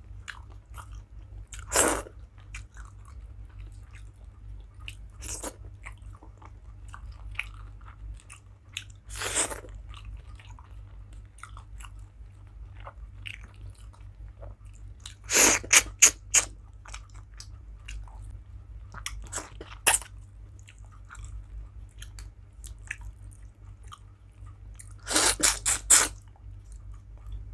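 Close-up chewing of a rice meal, with sharp crunches now and then, in quick clusters about halfway through and again near the end, over a steady low hum.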